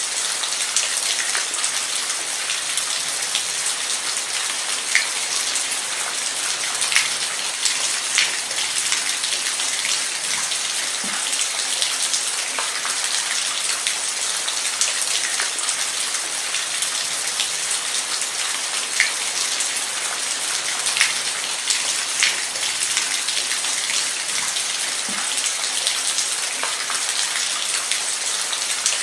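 Steady rain falling, a dense even patter with scattered louder individual drops striking close by.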